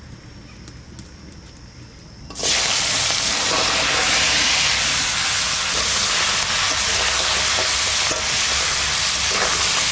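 Crab pieces tipped into hot mustard oil in a kadai about two seconds in, setting off a sudden loud sizzle that stays steady as they fry and are stirred.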